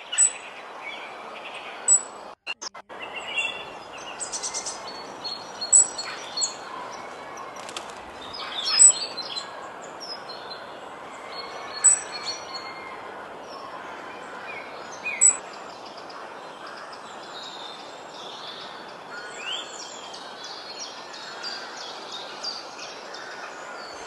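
Small aviary birds chirping, with a short high chirp repeating every few seconds among other calls, over steady background noise.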